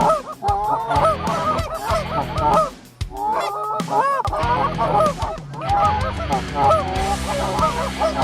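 A large flock of Canada geese honking, many overlapping calls at once as the birds come in low over the decoys.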